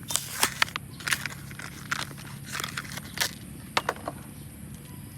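Plastic blister packaging of a Hot Wheels toy being handled and opened: a run of irregular sharp crackles and clicks that stops about four seconds in, over a steady low hum.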